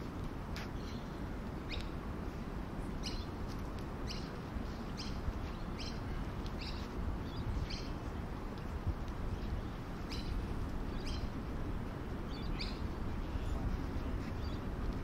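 Small birds chirping in short, separate calls, roughly one a second with a pause midway, over a steady low background rumble.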